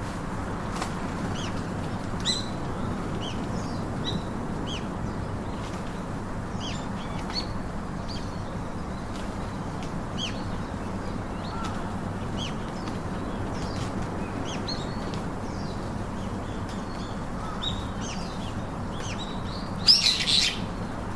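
Small birds chirping: short, high chirps come again and again, with a louder flurry of chirps near the end, over a steady low hum.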